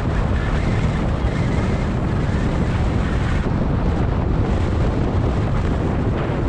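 Wind buffeting the microphone of a camera riding along on a moving bicycle: a steady, low rushing noise.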